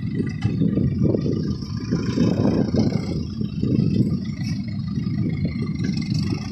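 Beach-cleaning tractor's engine running, a continuous uneven low rumble.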